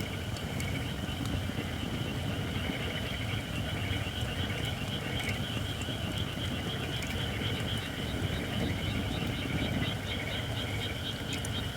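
White oak firewood, not yet fully dry, burning with faint scattered crackles, over a steady chorus of frogs calling in rapid, pulsing trills and a low steady rumble.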